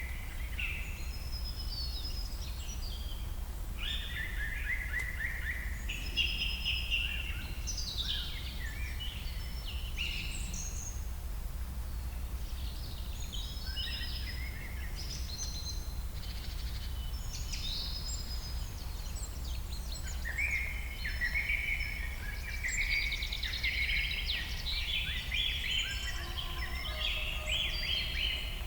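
Several songbirds singing and chirping in a varied chorus of quick trills and high notes, with a few lower whistled notes near the end, over a steady low rumble.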